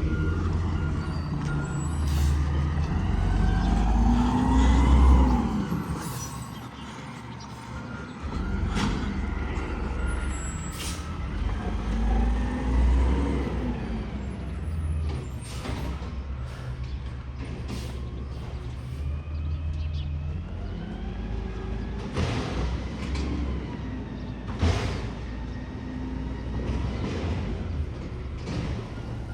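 Garbage truck engine revving up and down several times, with a run of short sharp knocks and hisses.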